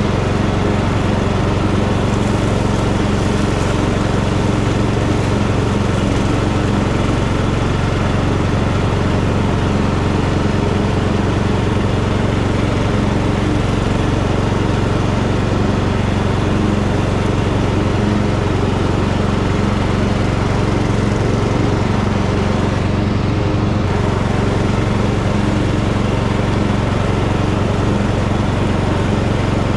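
Tractor engine running steadily at a constant pitch while mowing grass.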